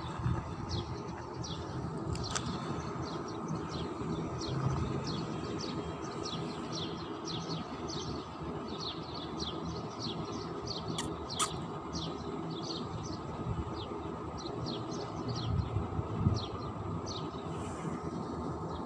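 Small birds chirping repeatedly, short high down-sweeping chirps a few times a second, over a steady low outdoor rumble, with a few sharp clicks around the middle.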